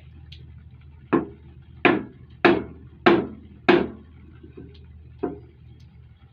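Hammer blows struck through a block of wood against a metal luggage-rack fitting, driving a tight, imperfectly machined part into its seat. There are five sharp strikes in quick succession, then a lighter one and another near the end.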